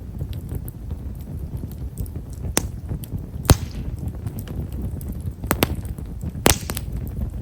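Wood fire of Himeshara (tall stewartia) firewood crackling: a steady low flame rumble under frequent fine, small pops, with a few sharper snaps, the loudest about three and a half seconds in and followed by a brief hiss.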